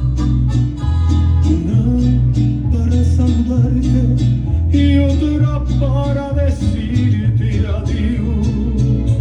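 Live band playing dance music with a sung vocal, over a steady beat and a strong bass line.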